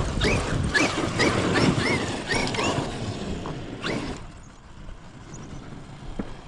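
Electric drivetrain of a large RC monster truck (Traxxas XRT/X-Maxx) being driven on a dirt track, the motor whining up and down with quick throttle blips. A sharp knock comes about four seconds in, after which it runs much quieter.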